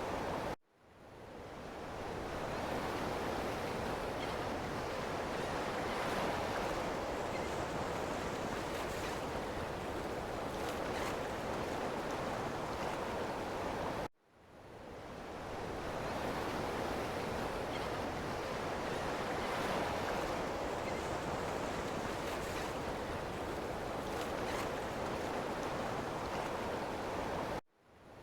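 Ocean surf washing steadily, a dense hiss of breaking waves. It cuts out suddenly three times, about every 13 to 14 seconds, and each time swells back in over a second or two.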